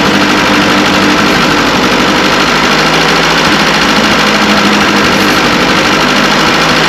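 Old carburetted, points-ignition petrol engine running steadily, test-run after its leaking intake was tightened to cure a vacuum leak that made it misfire and lose power above about 1,000 rpm.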